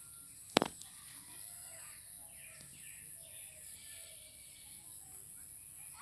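Small birds chirping in short, quick, falling notes, over a steady high-pitched hiss. A single sharp click about half a second in is the loudest sound.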